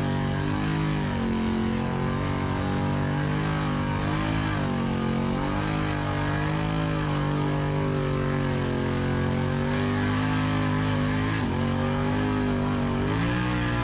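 Off-road vehicle engine running steadily, its pitch rising and falling slightly as the throttle is worked.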